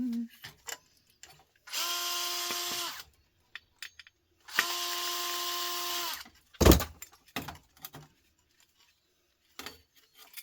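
Cordless drill-driver run in two short bursts, about a second and about a second and a half long, backing out screws; the motor whine dips in pitch as each run stops. These are followed by one sharp knock and a few lighter clicks of parts being handled.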